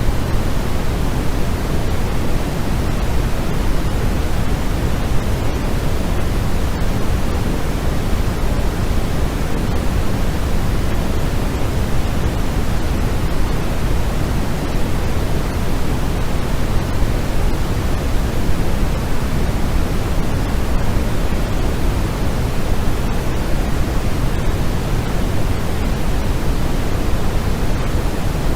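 Steady, unchanging noise played as sleep sound (sold as white noise), with more weight in the low end than the highs.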